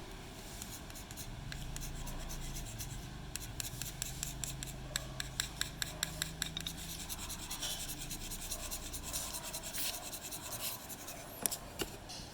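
A small stick or tool scraping and rubbing against a hard surface while glue is mixed, with a run of quick clicks and taps in the middle.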